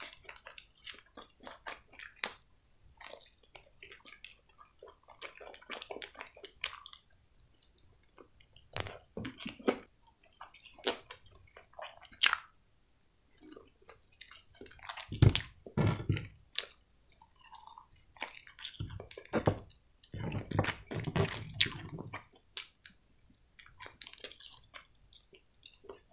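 Close-miked chewing of a crispy breaded chicken wing: irregular wet mouth sounds and small crunches, with a few louder, deeper thumps about midway.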